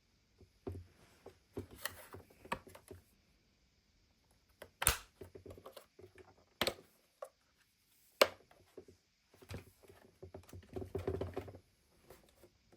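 Handling noises: scattered irregular clicks and rubbing, with three sharp, louder clicks in the middle and a burst of rubbing near the end.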